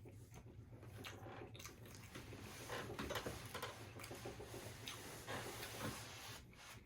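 Faint, irregular chewing and mouth sounds of someone eating: soft crunches and clicks.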